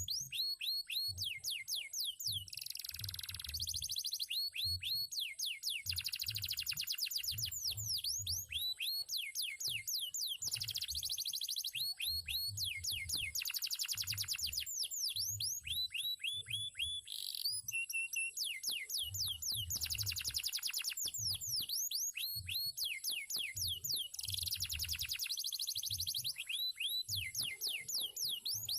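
Male domestic canary singing a long, continuous song of fast repeated falling whistled notes and rolling trills.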